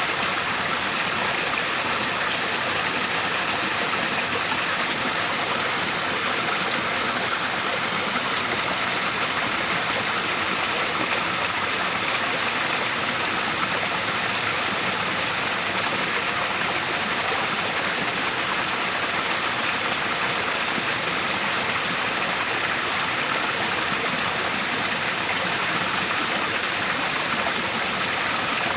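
Waterfall and stream water rushing steadily, an even hiss-like splashing without breaks.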